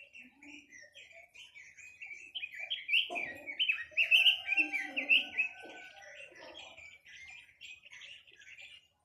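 A quế lâm songbird singing a rapid, continuous run of chirping notes, louder and fuller for a few seconds in the middle.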